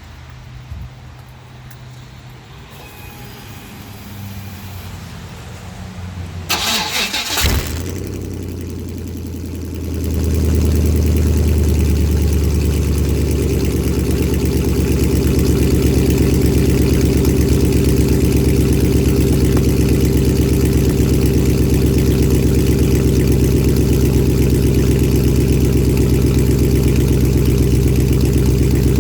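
1998 Chevy Silverado's 5.7 L 350 V8, with no catalytic converters or mufflers, cold-started. The starter cranks briefly about seven seconds in, the engine catches, and about ten seconds in it gets louder and settles into a steady, loud, uncorked cold idle.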